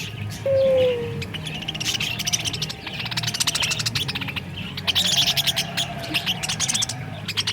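A flock of budgerigars chattering and chirping continuously, a dense run of quick, high warbling calls. About half a second in comes a brief falling tone, the loudest sound, over a steady low hum.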